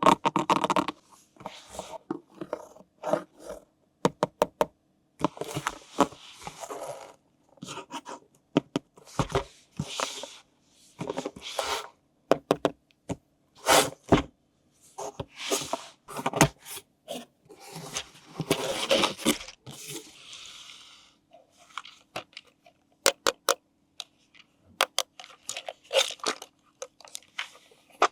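Toy packaging being handled and opened: irregular crinkling, tearing and scraping of plastic and cardboard, broken by sharp clicks.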